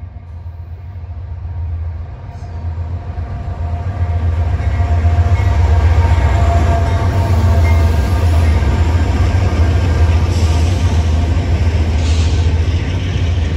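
Train passing close by, a heavy low rumble with rolling noise. It grows louder over the first few seconds, then runs steadily.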